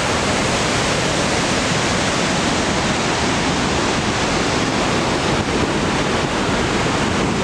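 Waterfall seen up close: a loud, steady, unbroken rush of falling water.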